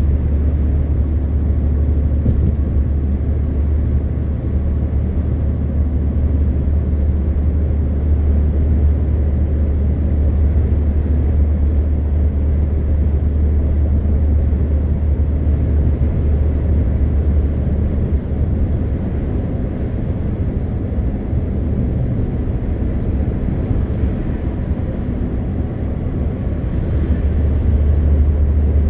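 MAN TGX 520 truck's inline-six diesel engine running steadily while driving, a deep, even drone mixed with road noise. It eases off a little past the middle and builds again near the end.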